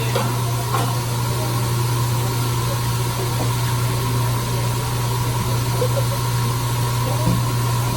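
A steady low mechanical hum with a thin higher tone over an even hiss, like a running fan or exhaust hood, with a few faint clinks.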